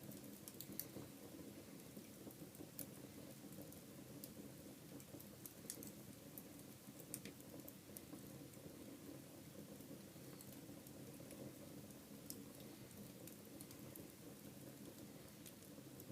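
Wood fire in a fireplace crackling faintly, with scattered sharp pops and ticks over a low steady hum.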